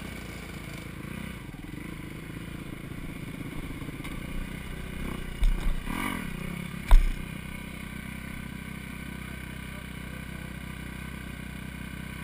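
Four-stroke dirt bike engine running at low, steady revs on a trail ride, the revs rising briefly around the middle, with a few sharp thumps of the bike over rough ground, the loudest about seven seconds in.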